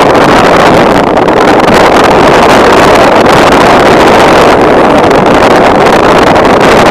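Loud, steady jet engine noise from an airliner, a dense rushing sound with no clear tone.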